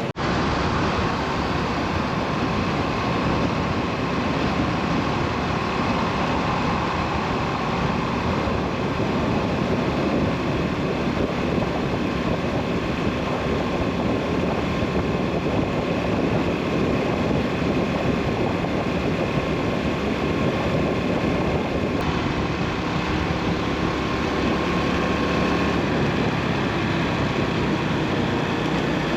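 2003 Yamaha SR400's carbureted single-cylinder engine running steadily at cruising speed, mixed with heavy wind and road noise. The sound shifts slightly at a cut about three quarters of the way through.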